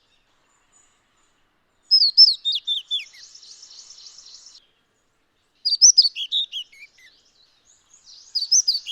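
Kashmir flycatcher calling: three bouts of short, high notes that flick up and down in pitch, each bout about a second long. The first bout trails into a faint, fast, buzzy rattle.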